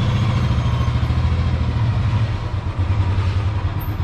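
Motorcycle engine running steadily with a low, even hum and some road noise.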